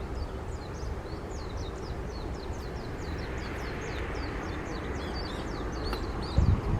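A small bird singing a long run of short, high, falling chirps, about three to four a second, over a steady low rumble. A low thump comes near the end.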